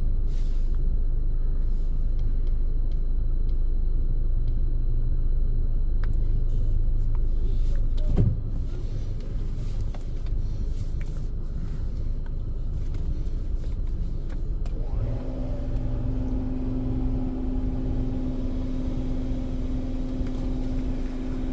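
Low steady rumble of a car idling, heard from inside its cabin. About fifteen seconds in, a steady hum joins it.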